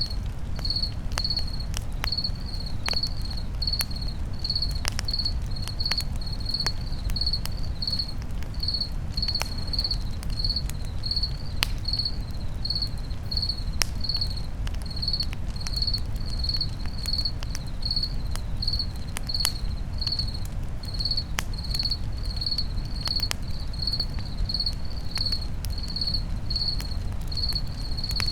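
Crickets chirping in a steady rhythm, a little under two chirps a second, over a campfire crackling with irregular sharp pops and a low steady rumble.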